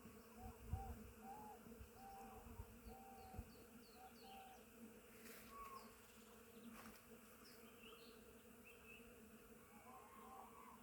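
Many bees buzzing as they forage on goat willow blossoms, a steady low hum of wings.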